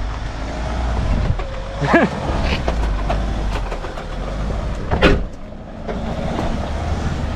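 Off-road vehicle's engine running with a steady low rumble, with scattered knocks and two brief louder sounds at about two and five seconds in.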